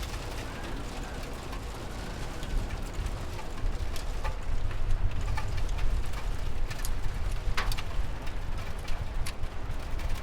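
Steady rain with a low rumble underneath and scattered sharp ticks of drops, growing louder and more frequent from about four seconds in.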